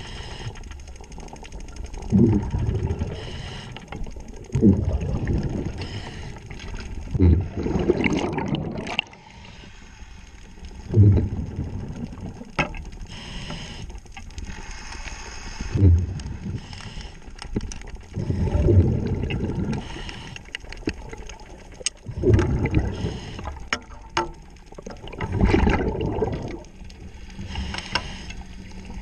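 Underwater breathing through a diver's regulator: a low bubbling rush of exhaled air about every three to four seconds, with quieter hiss between breaths.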